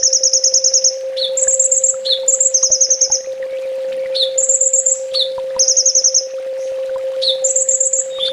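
Kolibri ninja sunbird singing: a string of rapid, high trills, each about half a second to a second long, several of them led in by a short falling note. A steady hum runs underneath.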